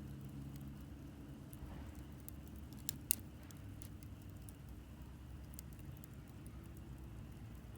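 Wood campfire crackling: scattered sharp pops and ticks, with two louder pops about three seconds in, over a steady low rumble.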